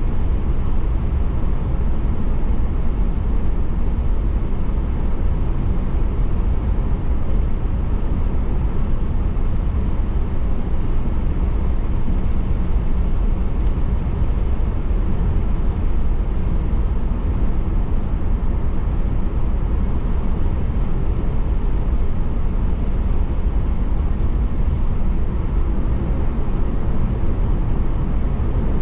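Steady road noise of a car driving: an even, low rumble of tyres and engine with no breaks or changes.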